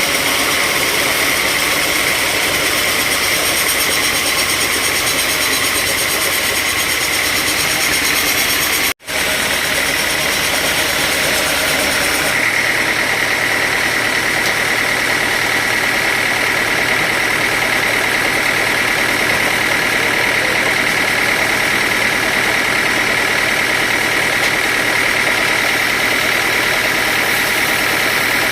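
Sawmill machinery running steadily: a continuous engine-like drone with a high whine. The sound cuts out for a moment about nine seconds in, and a few seconds later the whine becomes stronger and the low rumble lighter.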